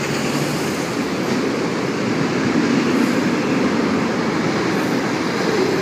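Short freight train passing through on the rails, a steady rolling noise of its wheels and wagons that does not let up.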